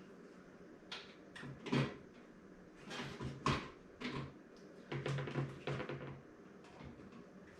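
Scattered knocks, taps and clicks of a PC case and its parts being handled, most of them between about one and six seconds in.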